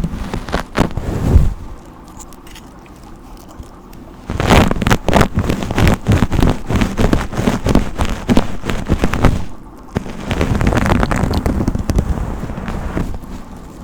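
Hairbrush strokes through hair close to the microphone, giving a scratchy, crackling rush with each stroke. A short run of strokes comes about a second in, then after a pause a long run of quick strokes, and near the end a smoother, steadier stretch of brushing.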